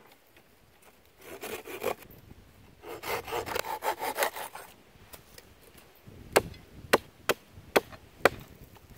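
Hand saw cutting wood in two short runs of quick strokes, followed by five sharp knocks about half a second apart.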